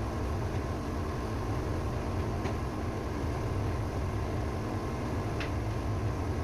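Ship's auxiliary engine running at a steady speed, an unbroken low engine-room drone with a faint steady whine above it. Two faint ticks come about two and a half and five and a half seconds in.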